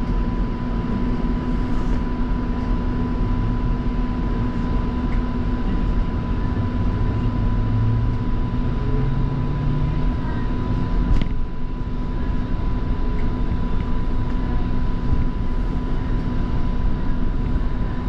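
Light rail train running between stations, heard on board: a steady rumble and hum with a constant high tone. Midway a low motor pitch rises for a few seconds as the train picks up speed, and there is a single sharp click about eleven seconds in.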